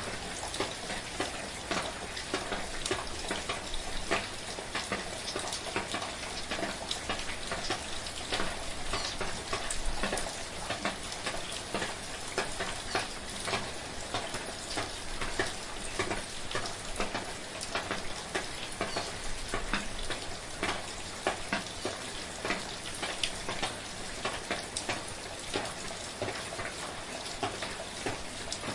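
Steady rain with a dense crackle of individual drops ticking on a surface, even and unbroken throughout.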